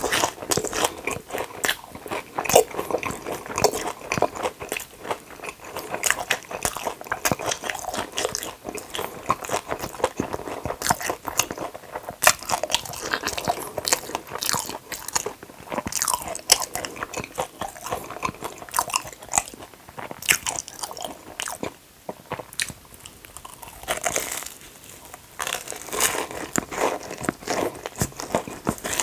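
Close-miked crunchy biting and chewing of Korean corn dogs (Myungrang hot dogs), a dense run of crisp crackles from the fried batter crust, easing briefly about two-thirds of the way through.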